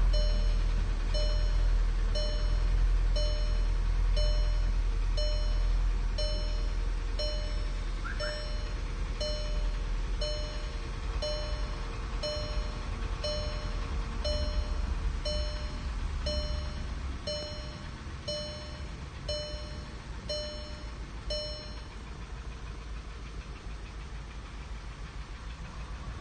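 Volkswagen Passat CC 2.0 TSI (EA888) engine idling cold, its deep rumble easing about two-thirds of the way through as the revs drop. The engine has a knock that the mechanics put down to the piston group. Over it a dashboard warning chime sounds about once a second, then stops near the end.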